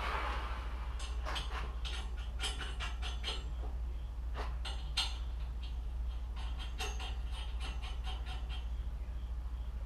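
Irregular clicks, clinks and scrapes of hand work on metal parts, over a steady low hum.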